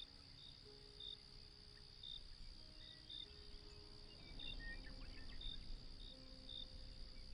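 Faint night ambience of crickets chirping, short high chirps over a steady high trill, with soft, slow music notes held underneath.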